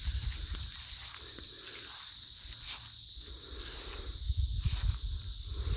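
Steady high drone of an insect chorus, with soft swishing footsteps through grass about once a second and a low rumble underneath.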